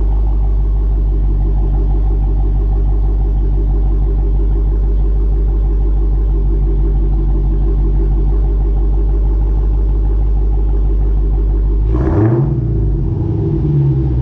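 Supercharged 6.2-litre HEMI V8 of a Dodge Challenger Hellcat Redeye, fitted with an aftermarket exhaust, running steadily with a deep rumble, then briefly revved once near the end and settling back.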